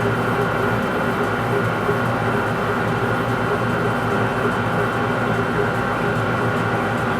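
Metal lathe running steadily while turning a large workpiece: an even machine hum with several held tones over a constant noise.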